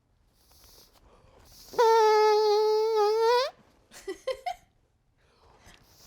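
A person making an imitation fart noise: one loud buzzing tone held for under two seconds, steady in pitch and rising at the end, then a few short sputters.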